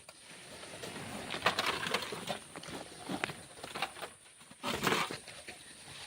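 Shovel scraping and scooping black sand, gritty crunching bursts, a long one about a second in and a shorter one near the end.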